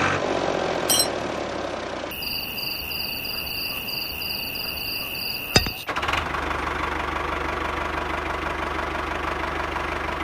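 A small motor running, in three stretches that change abruptly: a rattly mechanical run, then a steady high whine with a pulsing upper tone and a sharp click about five and a half seconds in, then a steadier, lower hum from about six seconds.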